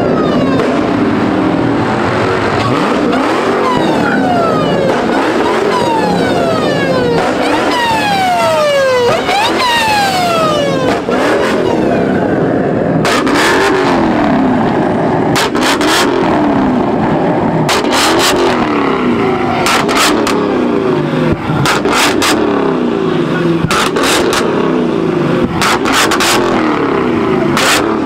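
Car engine revved again and again, its pitch sweeping down and then rising and falling about once a second. Sharp cracks come through the second half.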